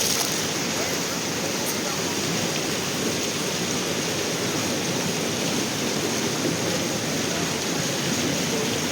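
Steady rushing of flowing river water, an even wash of noise that holds constant throughout.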